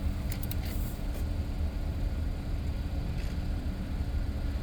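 A motor running steadily, a low rumble with a constant hum, with a few brief ticks about half a second in.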